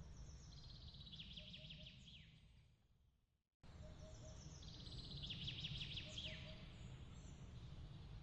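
A small songbird's rapid high trill ending in a quick downward sweep, heard twice, over a low steady rumble of ambience. Midway the sound fades away to a moment of silence and then cuts back in suddenly.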